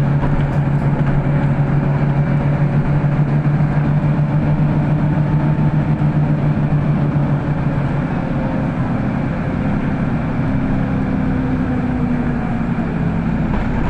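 City bus running between stops, heard from inside the passenger cabin: a steady, loud engine and drivetrain hum with road noise. About eight seconds in the low engine note fades and changes and the sound eases a little.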